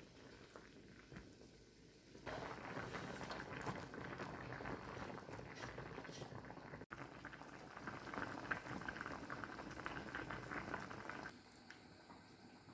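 Food cooking and bubbling with a dense crackle. It starts abruptly about two seconds in, breaks off for an instant near the middle, and stops shortly before the end.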